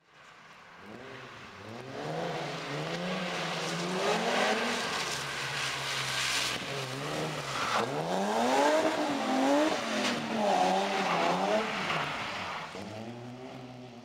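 Opel Ascona drift car with a BMW E34 M5 S38 straight-six engine, revving up and falling back over and over as it drifts, with tyre noise on wet tarmac. The sound fades in at the start and dies down near the end.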